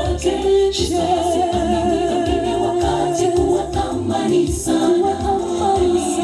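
A group of voices singing a gospel song a cappella, in harmony with long held notes.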